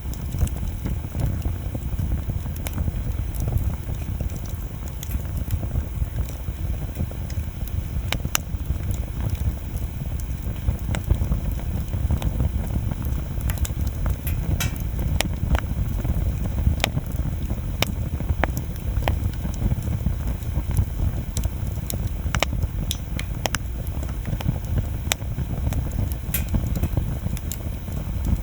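Wood bonfire burning: a steady low rumble with frequent sharp crackles and pops from the burning wood, scattered irregularly throughout.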